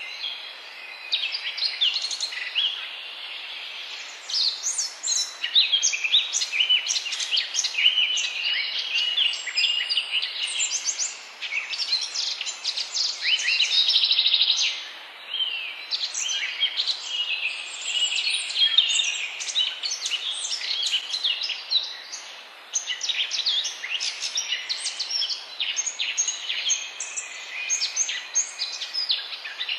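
Several birds singing and chirping together over a steady background hiss, many short whistled notes and chirps overlapping throughout.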